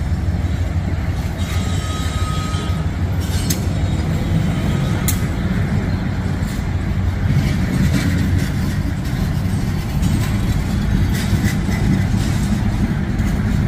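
Freight train cars rolling past: a steady heavy rumble with scattered clicks and clanks from the wheels and a brief faint squeal about two seconds in.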